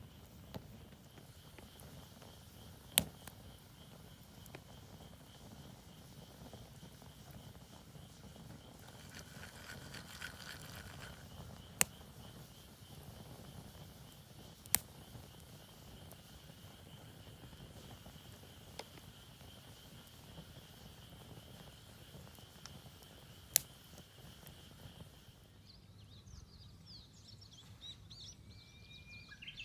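Night insects trilling steadily in a high pitch, with a few sharp, widely spaced pops from a wood campfire. Near the end the insect sound stops and birds chirp.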